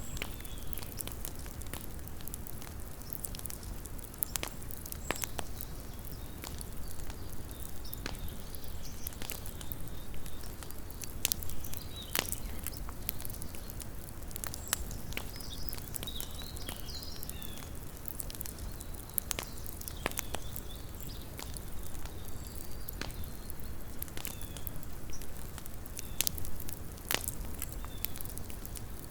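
Wood campfire crackling, with irregular sharp pops and snaps scattered through it over a steady low rumble.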